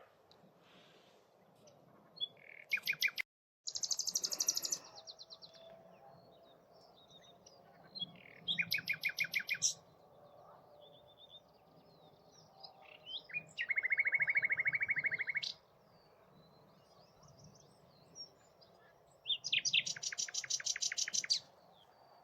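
Common nightingale singing: loud phrases of fast, evenly repeated notes, including one low, even rattle about halfway through, separated by pauses of a few seconds and quieter twittering.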